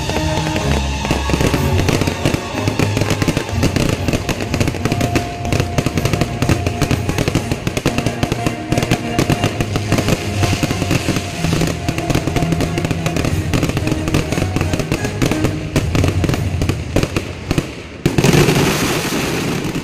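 Fireworks display: rapid bangs and crackling over music, with a louder, denser burst of crackle near the end.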